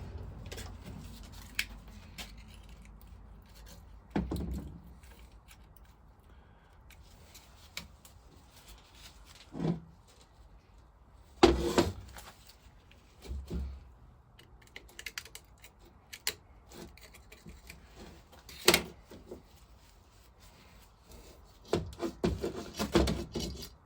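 Hand tools clinking, scraping and knocking on a metal casting as a scraper works at a gasketed joint on a vintage Lister engine's vaporiser. There are scattered sharp knocks, two loud ones about halfway and three quarters of the way through, and a run of clatter near the end.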